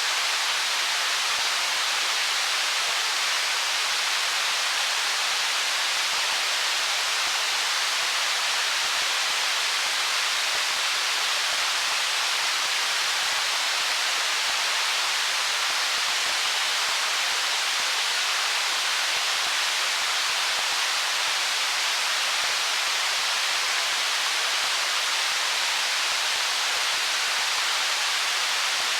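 Stream water flowing over stones: a steady, even rushing hiss with little low rumble and no changes.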